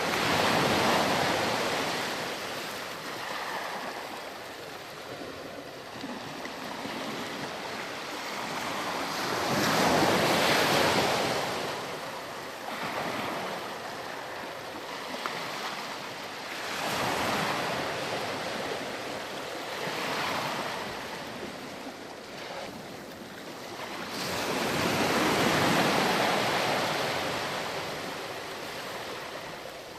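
Ocean waves breaking and washing up a sandy beach, the surf swelling and fading in repeated surges about every five to eight seconds, the strongest near the start, around ten seconds in and around twenty-five seconds in.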